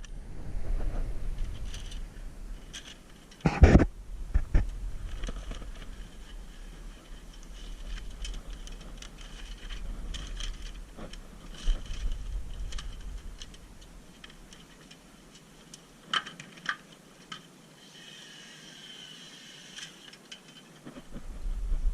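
Workshop work sounds: scattered knocks, clicks and rattles of tools and parts being handled, over a low rumble, with a short hiss near the end.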